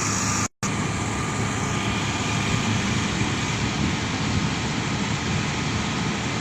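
Diesel engine of a Hitachi Zaxis 200 excavator running steadily, with a brief dropout of all sound about half a second in.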